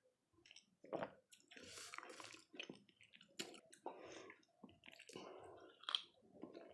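Close-miked wet chewing of dahi golgappe, crisp puris filled with yogurt and golgappa water: irregular soft squishes mixed with small crunchy clicks, beginning about a second in.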